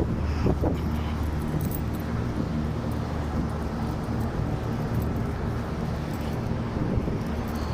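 Steady low machinery hum, with a couple of short knocks right at the start.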